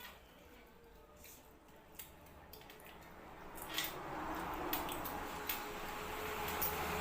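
Eating noises from someone eating fish-head curry: scattered small clicks and smacks. A steady rushing noise swells up about halfway through and stays to the end.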